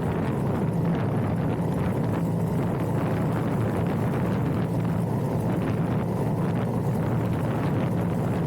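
Motorcycle riding steadily under way: an even engine hum blended with wind rush. It sounds muffled, with little above the midrange.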